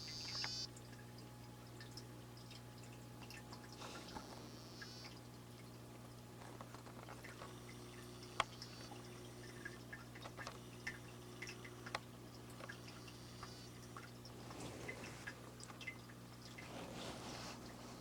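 Faint steady low hum with scattered small clicks and watery drips, and a brief high buzzing trill from a dwarf frog singing about four seconds in.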